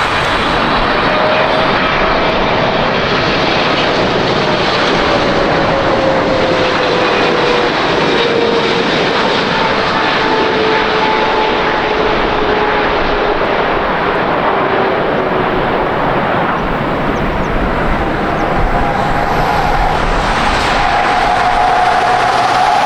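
A jet airliner's engines, loud and steady, with a thin whine that slowly falls in pitch as the aircraft goes past. Near the end a second, higher engine tone comes in.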